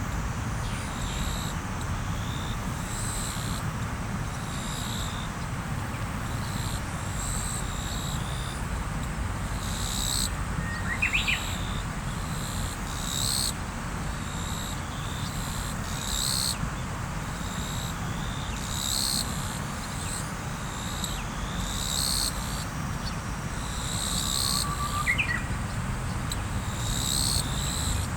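Riverside ambience: a river's water flowing steadily, with short high chirps repeating every few seconds and a bird giving a brief rising call twice.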